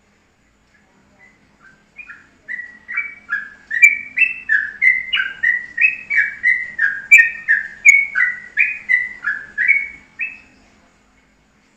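A songbird singing a long run of clear whistled notes, each sliding down in pitch. The notes come about two to three a second, alternating higher and lower, starting about two seconds in and stopping shortly before the end.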